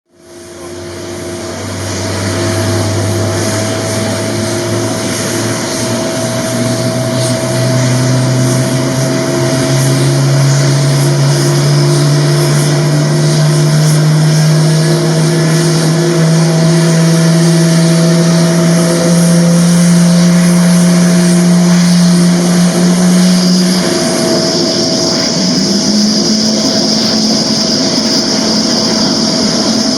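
Boeing 747-400 jet engines running at high power for takeoff: a loud, low drone that rises slowly in pitch for about 24 seconds, then changes, with a high whine growing stronger near the end.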